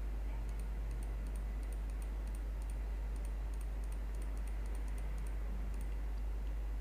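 Steady low electrical hum with faint, irregular light clicking from a computer keyboard or mouse.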